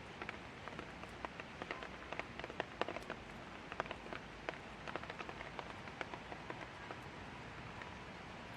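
Light rain falling: a steady soft hiss with many separate drops hitting close by at irregular moments.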